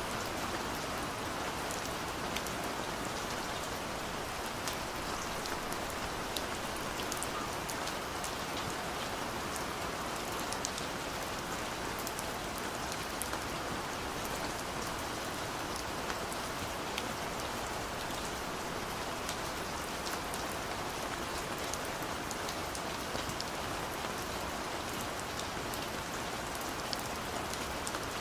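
Steady rain falling, an even hiss of rainfall with scattered distinct drops ticking on a surface.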